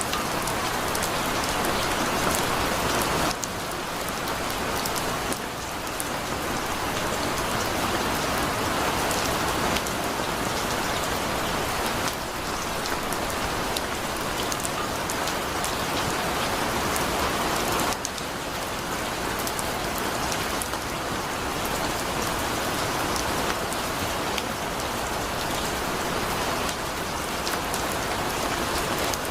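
Heavy rain falling steadily, a dense hiss of rain on surfaces with individual drops ticking through it.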